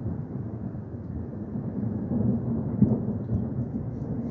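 Low, steady rumble of a thunderstorm, swelling a little through the middle with a short louder peak near the end.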